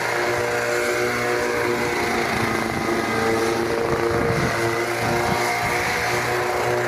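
Grob G 120TP trainer's turboprop engine and propeller droning steadily as the aircraft flies, a held hum of several tones that shift slightly in pitch.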